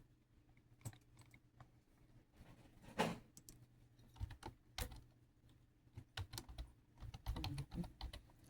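Irregular light clicks and taps, like fingers on keys or a hard surface, with one louder noise about three seconds in and a quicker run of taps near the end.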